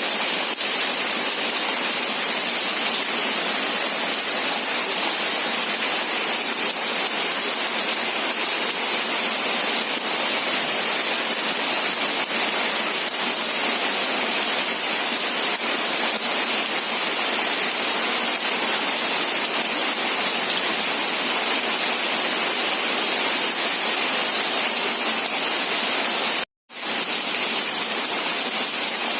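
Steady rain, an even hiss strongest in the high range, cut by a brief gap of silence about 26 seconds in.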